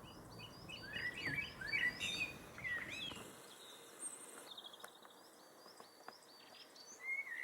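Eurasian blackbird singing: a mellow, warbled phrase of gliding notes starting about a second in and lasting about two seconds, with another phrase beginning near the end. Thinner, higher repeated notes run underneath.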